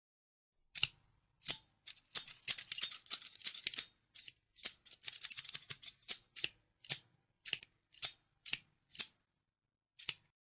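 Scissors snipping. The blades close in quick runs of rapid snips, then slow to single snips about every half second.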